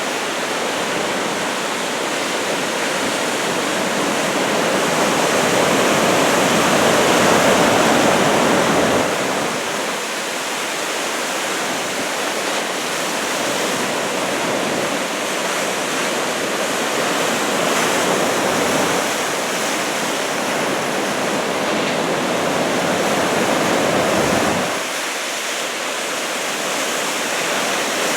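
Heavy ocean surf from a typhoon swell of about 2 m waves: a steady roar of breaking waves that swells louder twice and drops off abruptly near the end.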